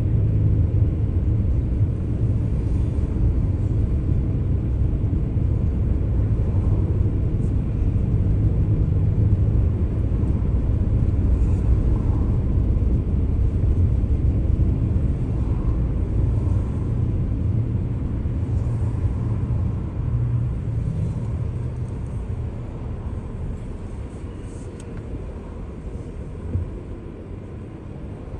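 Car driving: a steady low engine and road rumble that eases off gradually over the last several seconds, with a single light knock near the end.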